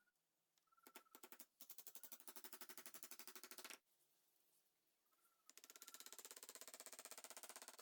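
Rapid, evenly spaced mechanical knocking from a power tool, in two bursts: the first starts about one and a half seconds in and lasts about two seconds, and the second starts about five and a half seconds in and runs on.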